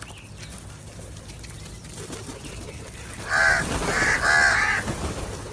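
A crow cawing three times in quick succession, starting a little past halfway through.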